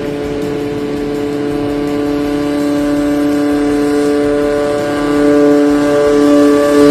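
Homemade light aircraft's Kawasaki Ninja 150 two-stroke engine running at high revs, driving its propeller. It is a steady drone that grows gradually louder.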